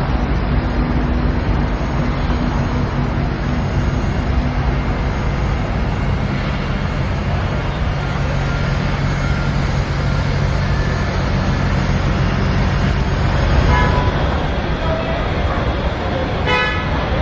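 Motor vehicle engine and road noise running steadily, with a short horn toot about three seconds before the end.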